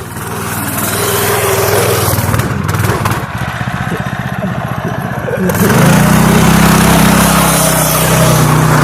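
A small vehicle engine running under way. It revs up and gets louder about five and a half seconds in.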